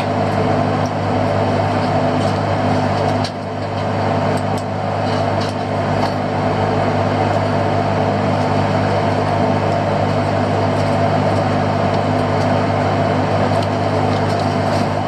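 Fishing boat's engine running steadily, a constant droning hum, with a short dip in loudness about three seconds in.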